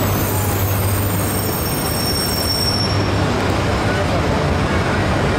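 Shinkansen train at a station platform: a steady low hum under a constant rushing noise, with a thin high whine that fades out about halfway through.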